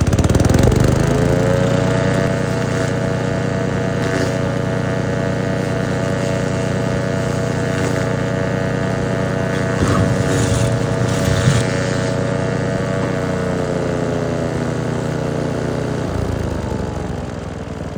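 Troy-Bilt Tomahawk Pro wood chipper's small gas engine revving up and running steadily on a new carburetor, smooth with no surging, with a few brief clatters around the middle. Its pitch falls away over the last few seconds as the engine winds down.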